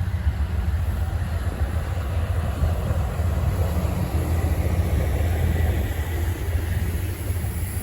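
Amtrak Southwest Chief passenger train's diesel locomotives running: a steady low rumble, even in level throughout.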